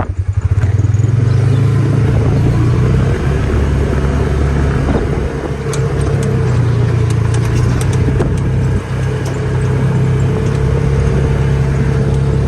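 Vehicle engine running steadily at low revs while driving, with a few light clicks and rattles about halfway through.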